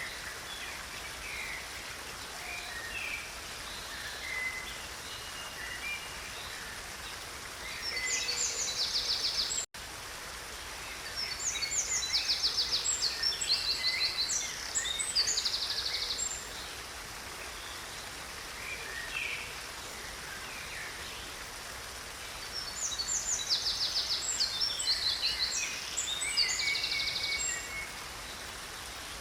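Steady running water of a stream, with songbirds singing over it: three long spells of rapid high trills and chirps, and scattered short calls between them. The sound drops out for an instant about ten seconds in.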